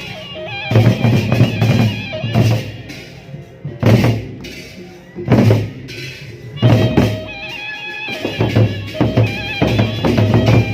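Gendang beleq ensemble playing: the big Sasak double-headed drums strike heavy, accented beats about once a second. Above them a suling bamboo flute plays a held, ornamented melody.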